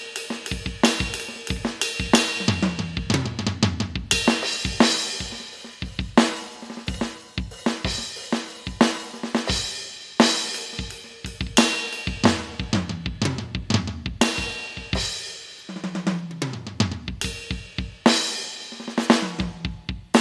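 Alesis Nitro Mesh electronic drum kit played in a steady groove of kick, snare, hi-hat and cymbals. There are tom fills running down from high to low toms, about two seconds in and again near the end, with cymbal crashes ringing out between phrases.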